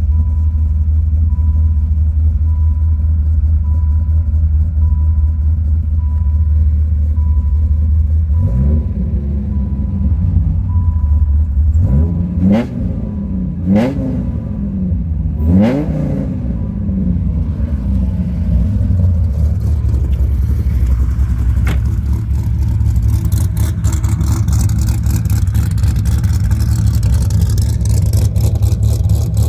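Freshly rebuilt Dodge Viper GTS V10 idling, blipped four times in quick revs in the middle that fall back to idle. Near the end it is heard from behind the twin tailpipes, with a sharper, ticking exhaust note.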